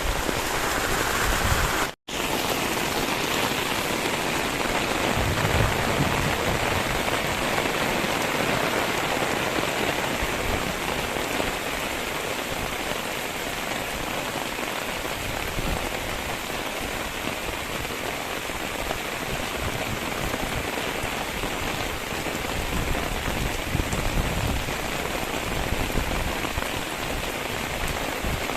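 Steady hiss of water, with a brief cut to silence about two seconds in.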